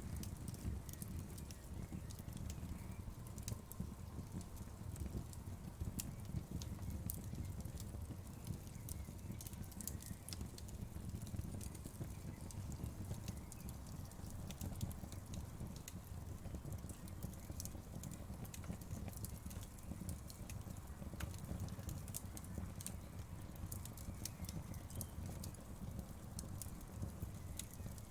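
Wood fire crackling in a fireplace: frequent sharp pops and snaps, irregularly spaced, over a low, steady rumble of burning flames.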